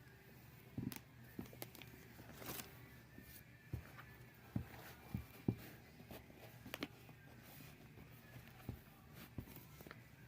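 Scattered light knocks and clicks, about a dozen, irregularly spaced over a steady low hum, the loudest a few seconds in.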